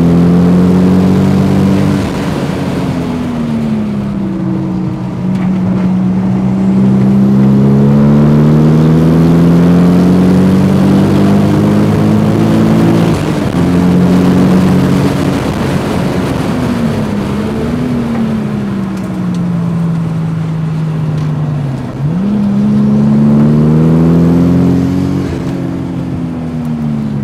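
Car engine heard from inside the cabin while lapping a race track, revving up under acceleration and easing off for corners. Its pitch drops suddenly about halfway through and again near the end at gear changes.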